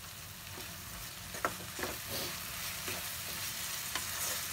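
Tomato-onion masala frying with a steady sizzle in a non-stick kadai, while a spatula stirs it, scraping against the pan a few short times after about a second.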